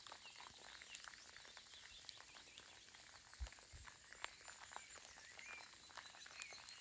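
Soft rain falling: faint, scattered raindrop ticks and patter over a quiet background, with a few faint bird chirps and a low thud about halfway through.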